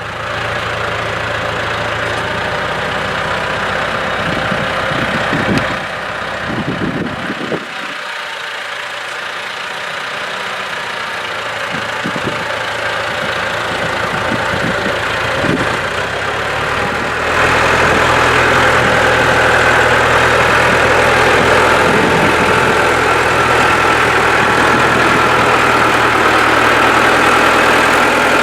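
Tractor engine running steadily, stepping up louder about two-thirds of the way through.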